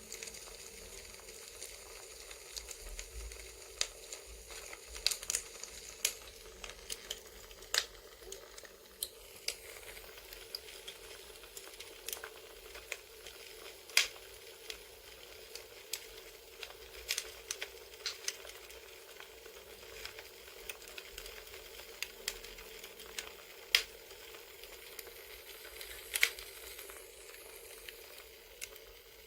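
Crackling campfire ASMR track: a steady low hiss with irregular sharp pops and snaps of burning wood, a few of them much louder than the rest.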